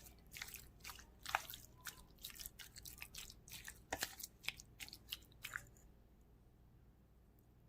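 Sliced raw chicken thighs being mixed with dry seasoning: irregular wet squishing and clicks that stop about six seconds in.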